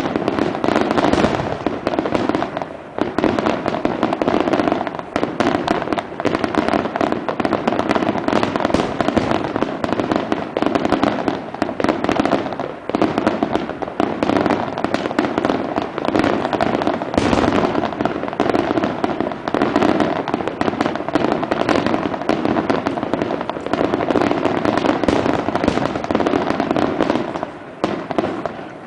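Aerial fireworks going off in a dense barrage: rapid, overlapping bangs and crackling with hardly a pause, easing off just before the end.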